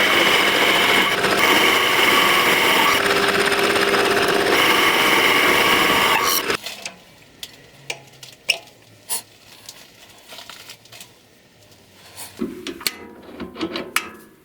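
A power tool runs loud and steady for about six seconds, dipping briefly a few times, then stops. Scattered knocks and clicks of handling follow, with a cluster near the end.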